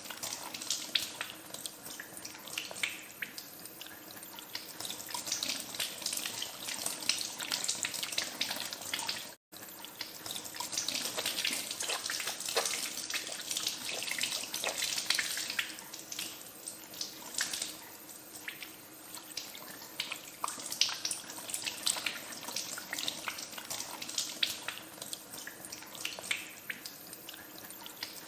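Tap water running into a sink while hands are washed under the stream, with irregular splashing throughout. The sound cuts out completely for an instant about nine seconds in.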